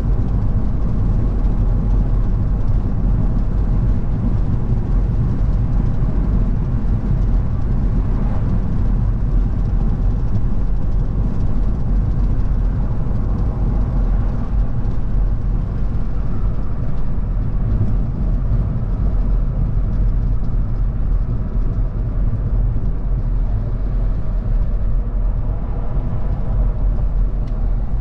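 Car driving at a steady speed: engine running with tyre and road rumble, steady throughout.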